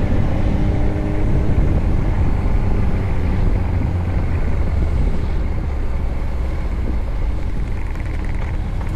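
Motorcycle engine running steadily under way, a continuous low rumble with no clear change in revs.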